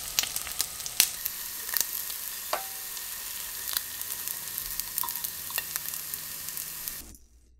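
Cheese-coated rice balls sizzling in a frying pan over medium heat, a steady hiss with frequent sharp crackles as the rice bottoms crisp into a crust. The sizzling cuts off suddenly near the end.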